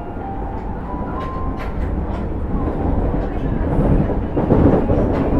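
Osaka Metro 30000 series subway train running, heard from inside the car: a steady rumble of wheels on rail with sharp wheel clicks over the rail joints that grow louder and more frequent in the second half. A faint electric whine from the SiC-VVVF traction drive sounds in the first second or two.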